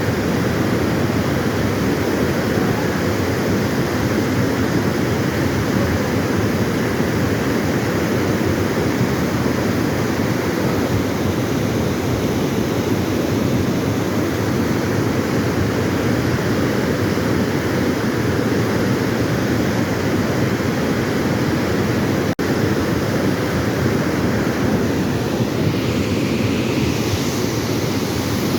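Fast floodwater of a flash flood rushing steadily and loudly, with a momentary dropout about three-quarters of the way through.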